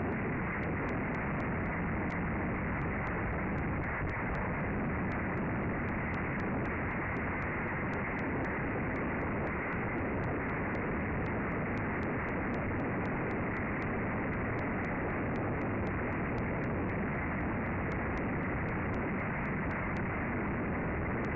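Strong wind blowing over an outdoor nest-camera microphone: a steady, unbroken rush of noise.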